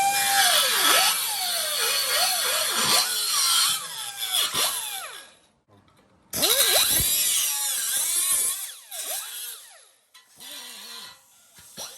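Handheld power tool working a metal bracket, its motor whine sagging and rising again and again as it bites into the metal. It stops for about a second midway, starts again, then dies away near the end.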